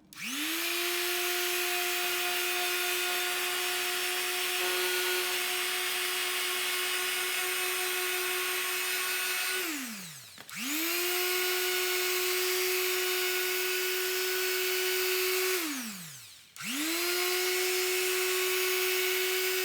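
Handheld electric power tool working a piece of acrylic: its motor spins up to a steady high whine, runs and winds down, three times, the runs getting shorter, the last winding down near the end.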